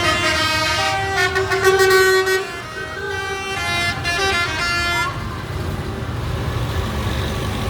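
A vehicle horn sounds a run of notes at changing pitches for about five seconds, over the low running of passing tractor engines.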